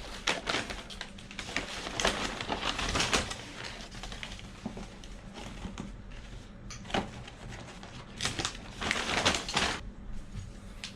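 Fast-food paper packaging rustling and crinkling as it is handled, in bursts: from the start to about three seconds in, briefly about seven seconds in, and again for a couple of seconds near the end.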